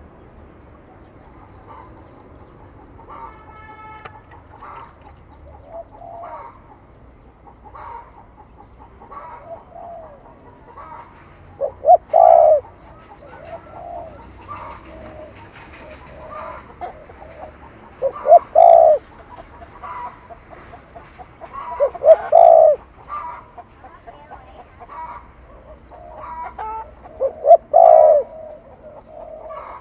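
Spotted dove (cu gáy) cooing in the 'thổ thúc gù' style, the call used to rouse decoy birds: loud low coos come every four to six seconds, with softer calls in between.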